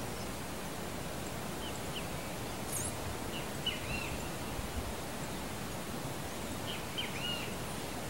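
Steady outdoor background hiss with short chirps and whistled notes from unseen birds in three brief groups, about two, four and seven seconds in, and one very high thin note near three seconds.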